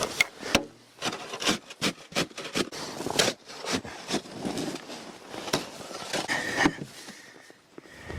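Irregular knocks, clicks and scraping, as of things being handled and moved about.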